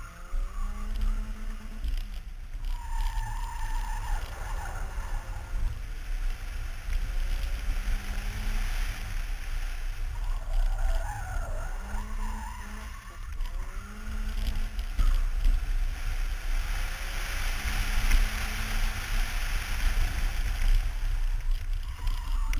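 BMW E30 318is's four-cylinder engine driven hard, its note climbing and dropping again and again through gear changes and lifts off the throttle. Heavy wind buffeting on the microphone runs underneath, and a broad rush of tyre and road noise swells louder late on.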